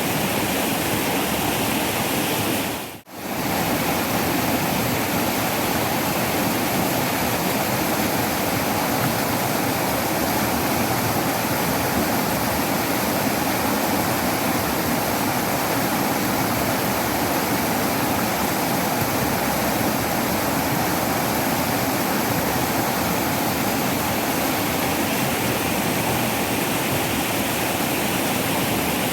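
Waterfall rushing steadily, a dense even wash of falling water, which dips out for a split second about three seconds in.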